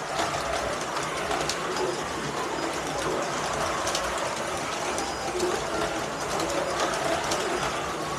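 Several Carrera Digital 1/32 slot cars running on the track: a steady, mixed whir of small electric motors and gears, its pitches rising and falling as the cars speed up and slow down, with a few sharp clicks.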